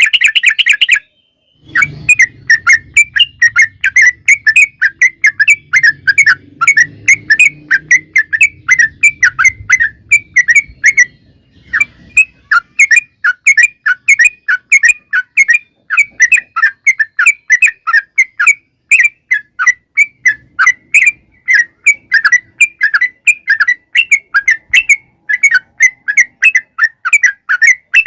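Yellow-vented bulbul (trucukan) singing a long, fast run of short chirping notes, several a second, with a brief break about a second in and another near the middle.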